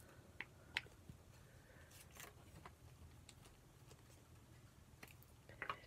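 Near silence with faint paper handling: a few light clicks and brief rustles as postage stamps are sorted and placed in a journal.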